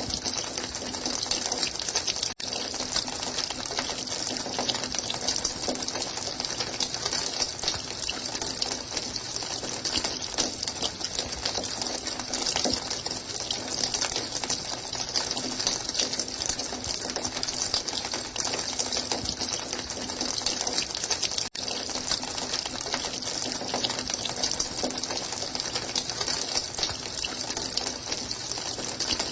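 Running water, a steady continuous gush that cuts out for an instant twice.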